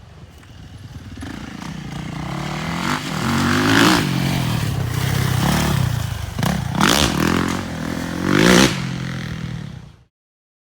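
Motorcycle engine revving hard, getting louder over the first few seconds, then rising and falling in pitch as the throttle is opened and closed, with sharp peaks about four, seven and eight and a half seconds in.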